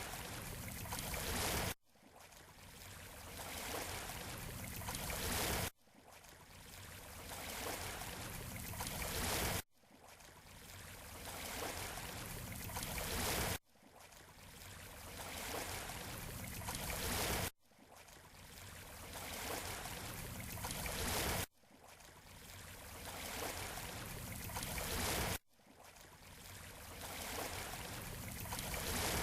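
Waves washing on a beach shore, as a short recording looped about every four seconds: each pass swells up and then cuts off abruptly before starting again.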